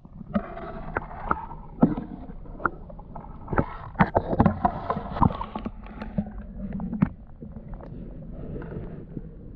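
Footsteps and knocks on a boardwalk: irregular thumps and clacks, busiest in the first half and thinning out in the last few seconds.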